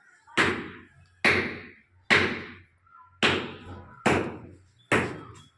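Six sharp knocks, evenly spaced a little under a second apart, each dying away over about half a second.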